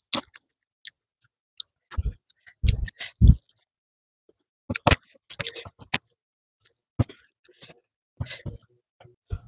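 Close-miked eating sounds from a clip-on microphone: chewing mouthfuls of rice and side dishes, heard as separate short wet clicks and smacks with a few soft low thumps.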